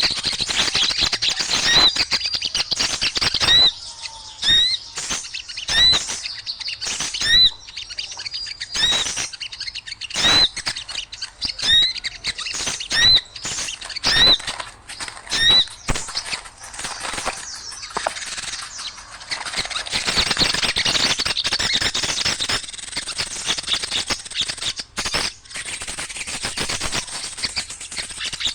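A noisy flock of small birds chattering and calling: a short hooked call repeats about once a second over busy, sharp chatter for the first half, and the chatter thickens in the second half.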